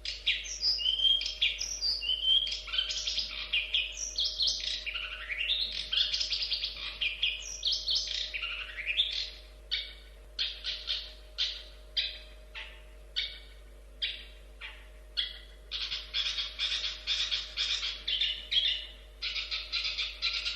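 Long-tailed shrike singing a varied song: a quick run of whistled, gliding phrases, then, about nine seconds in, a string of separate short harsh notes about one a second, which pick up again into faster runs near the end.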